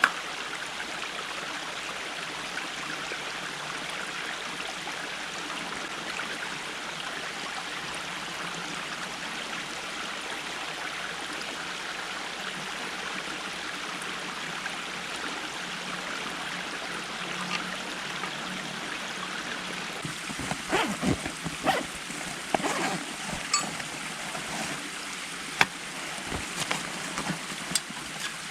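A stream running steadily. About twenty seconds in, a series of sharp knocks and clicks starts over the water sound.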